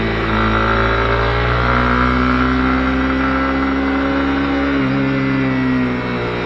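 Honda CB250R's single-cylinder engine running under way, its pitch rising slowly as the bike gathers speed, then dropping about five seconds in as the revs change.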